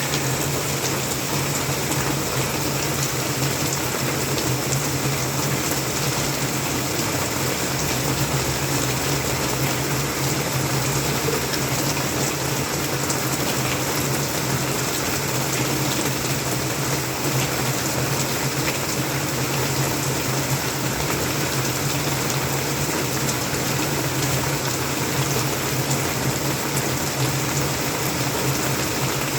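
Heavy rain falling steadily: a dense, even hiss sprinkled with many small drop ticks.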